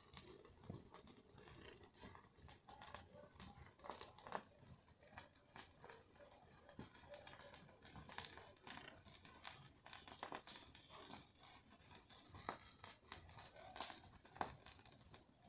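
Campfire burning, with faint, irregular crackles and snaps from the wood.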